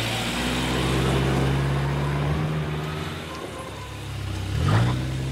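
A motor vehicle's engine running steadily, with a brief rise in pitch about four and a half seconds in.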